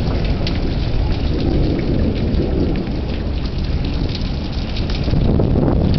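Heavy thunderstorm rain pouring down, a dense pattering of drops over a steady low rumble.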